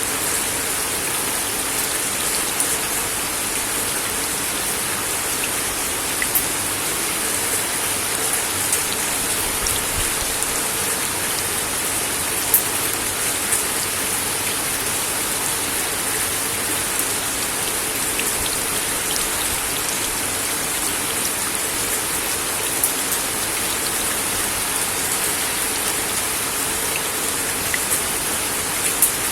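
Steady rain falling on a wooden deck, a dense even hiss with scattered sharper drop ticks.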